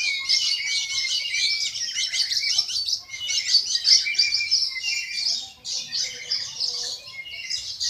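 Chorus of many small birds chirping and twittering at once, a dense unbroken chatter of short high calls that dips briefly twice.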